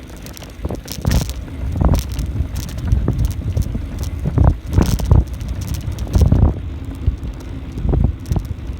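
Wind buffeting the microphone of a camera riding along on a moving bicycle, in uneven low gusts, with scattered sharp clicks and rattles from the bike going over the path.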